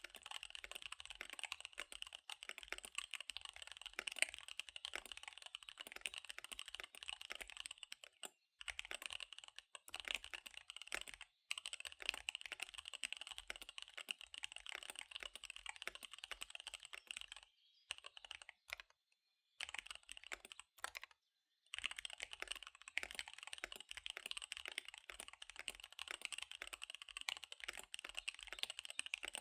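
Fast typing on a KBD75 V3 mechanical keyboard with SP-Star Dark Magic Girl tactile switches and DSA keycaps: a rapid, steady patter of keystrokes. There are two brief stops, then a pause of a few seconds a little past halfway before the typing resumes.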